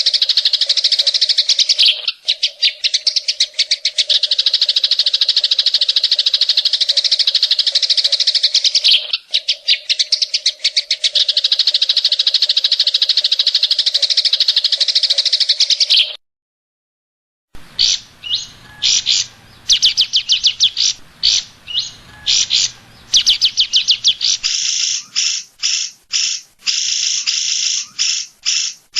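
Green leafbird (cucak ijo) singing fast, harsh, rapid-fire trills: the shrill 'tembakan' bursts in the cililin style. The trilling runs almost unbroken for about sixteen seconds with two brief catches, cuts out suddenly for over a second, then returns as many short, quick phrases.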